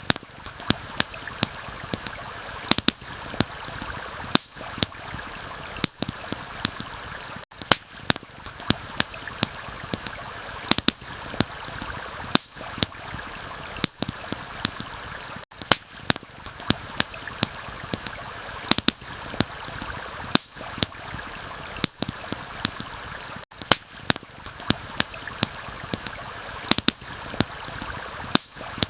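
A stream running steadily, with a campfire crackling over it in frequent, irregular sharp pops and snaps.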